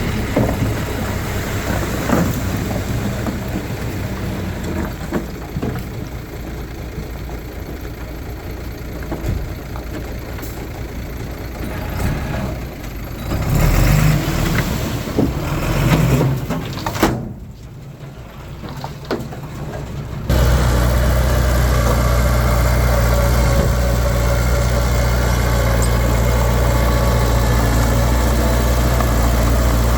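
Diesel engines of heavy earthmoving machines running, with louder low surges around the middle. About two-thirds of the way in, the sound jumps abruptly to a steady, louder engine drone.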